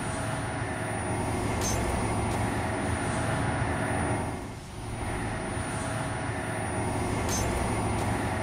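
Steady low rumbling drone with a thin high-pitched ringing tone over it, dipping briefly about four and a half seconds in.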